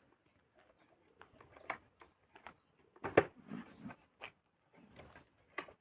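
Scattered light clicks and taps from the Kugoo Wish 04 scooter seat and its latch being handled and jostled, with one louder knock about three seconds in. The seat no longer rattles, now that the bolt hitting the lock has been cut shorter and sleeved with a piece of hose.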